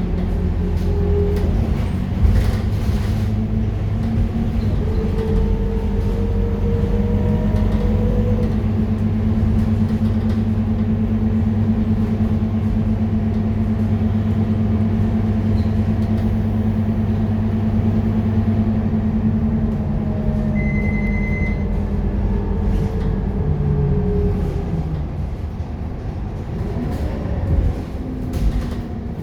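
Scania K230UB city bus's five-cylinder diesel engine running steadily under way, its pitch dropping as the bus slows about three-quarters of the way through. A short high beep sounds partway through, and there are a few knocks near the end.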